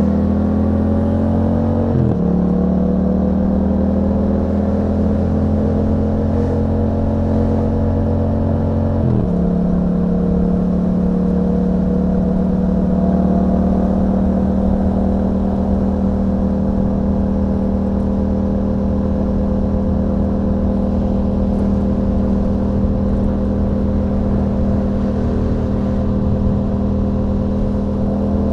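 2021 Yamaha MT-07 parallel-twin engine running through an Akrapovic exhaust fitted with a dB killer, under way on the road. Its note drops sharply at an upshift about two seconds in and again about nine seconds in, then holds a nearly steady pitch that climbs slightly.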